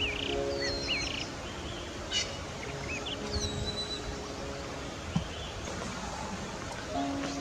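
Birds chirping in short whistled calls that glide up and down, most of them in the first half, over a steady outdoor hiss.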